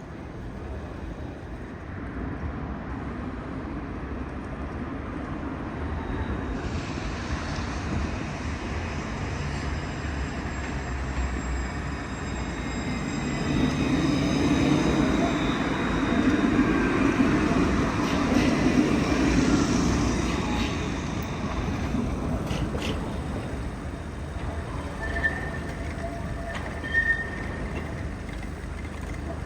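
A tram passing close by: the rumble of its wheels and motors swells over several seconds in the middle, with a faint high whine, then fades away. Two short high tones sound near the end.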